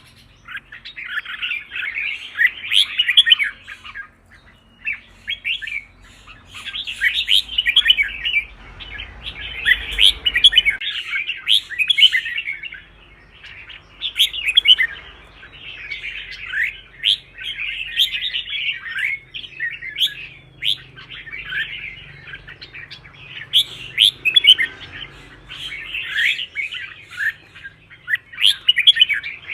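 Red-whiskered bulbul singing: quick chirping, warbled phrases a second or two long, repeated again and again with short pauses between them.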